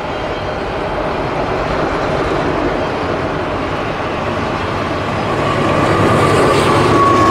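Freight train rolling past, a steady rumble and clatter of cars on the rails that grows louder toward the end, with a faint steady tone joining about six seconds in.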